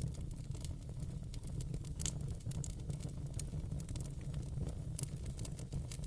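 Wood fire burning in a fireplace: a steady low rumble under a constant patter of small crackles and pops, with louder pops about two seconds in and again about five seconds in.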